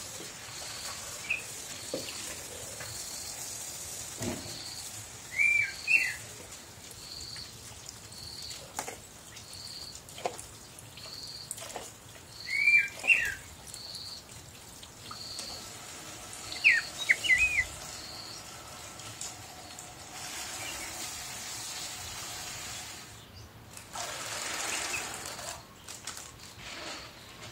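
Birds calling: a short high chirp repeats about once a second throughout, and louder swooping calls come in three short clusters, about a fifth, half and two-thirds of the way through. Water from a kitchen tap runs and splashes faintly underneath, more strongly near the end, with a few small knocks of tubs against a steel sink.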